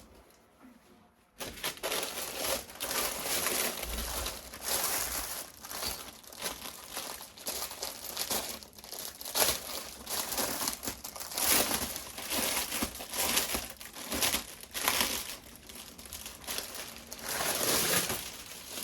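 Plastic packaging crinkling and rustling as it is handled, starting about a second and a half in and going on in irregular crackly bursts.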